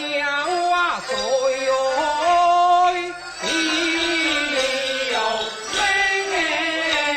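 Teochew opera singing: a voice sings a wavering, gliding melodic line over a traditional Chinese instrumental ensemble, with a short break about three seconds in.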